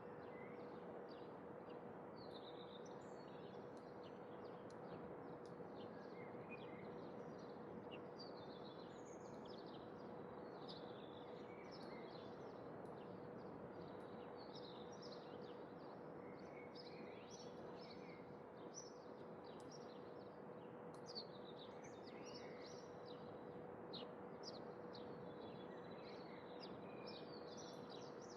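Faint outdoor ambience with small birds chirping, many short high-pitched calls overlapping throughout, over a steady hiss and a constant low hum.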